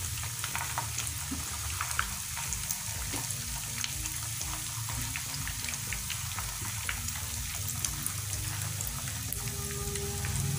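Egg-coated potato perkedel deep-frying in hot oil: a steady sizzling hiss with fine crackles, and occasional clicks of the spatula turning them.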